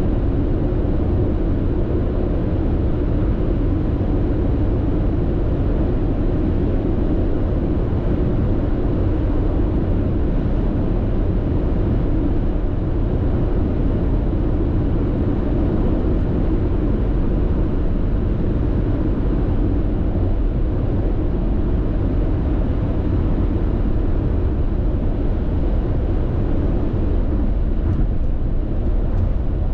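Steady road and tyre noise inside a car cruising at constant speed on an expressway: a low, even rumble that does not change.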